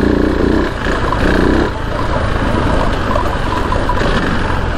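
KTM 690 Enduro R's single-cylinder engine pulling in first gear, its pitch strong for the first second and again briefly about a second in, then running on under a rougher, noisier sound.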